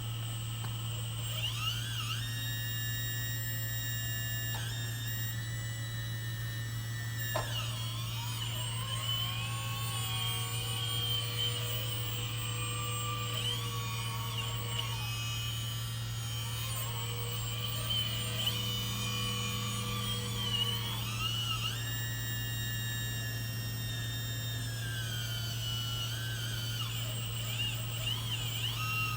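Hydraulic pump of a Mother PC700 1/14.5-scale RC excavator whining as the machine is operated. Its pitch rises and falls and holds at different levels as the controls open more valves and the pump ramps up, over a steady low hum.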